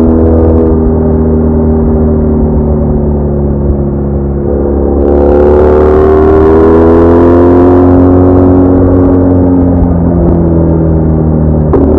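BMW R1200R's boxer-twin engine running under way. About halfway through it pulls harder with a rush of noise, and its pitch rises and then slowly falls. A short click near the end comes as the pitch steps, typical of a gear change.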